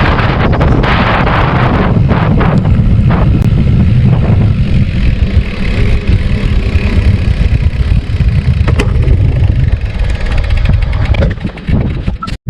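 Heavy wind buffeting on the microphone, a loud low rumble that eases off near the end.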